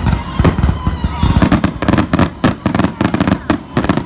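Fireworks going off in a rapid barrage of sharp bangs and crackles.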